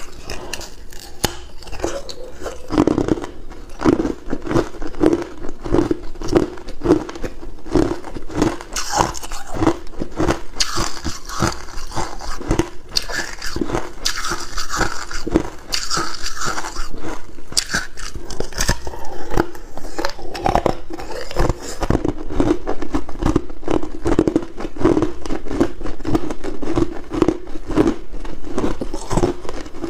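Hard ice cubes being bitten and chewed close to the microphone: dense, sharp crunching and cracking over a steady chewing rhythm.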